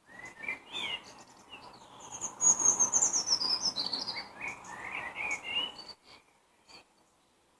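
Wild songbirds singing and chirping, including a high, falling song phrase in the middle, over a soft rushing hiss; it stops about six seconds in.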